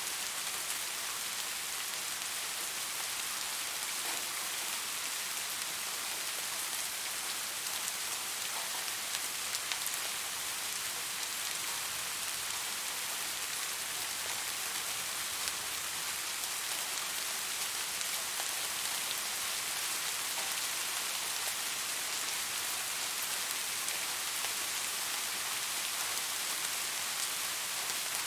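Soft rain falling steadily, a fine even hiss with faint scattered drop ticks.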